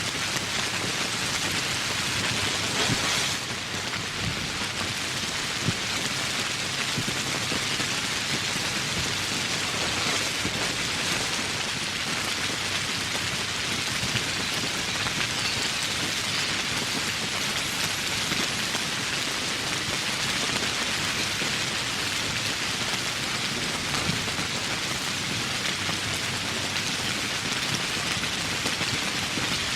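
Steady heavy rain falling on foliage and surfaces in a tropical forest, a dense even hiss of raindrops with scattered nearer drops.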